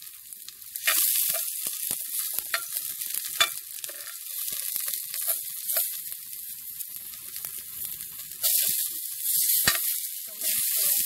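Ginger, onion and garlic sizzling in hot olive oil as they are sautéed and stirred, with scattered sharp clicks of the stirring utensil. The sizzle swells about a second in and again near the end.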